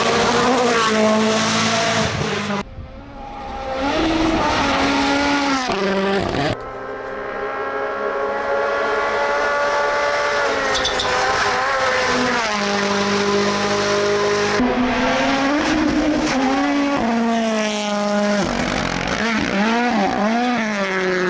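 Rally car engines revving hard, their pitch climbing and dropping with throttle and gear changes, in a string of short clips of different cars that change abruptly several times.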